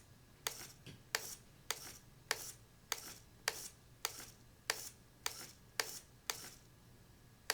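Small RC servo flipping the car's pop-up headlights up and down over and over: a sharp click with a brief whir roughly every 0.6 s, about a dozen in all, pausing near the end before one last click.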